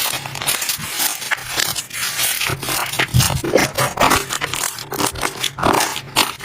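Slime being squeezed and pressed by hand, giving a dense, continuous run of crackling, popping and scraping sounds.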